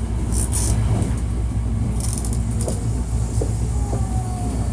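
Hankyu 1300 series electric train's running noise heard inside the car: a steady low rumble with a few light clicks, and a short thin squeal near the end.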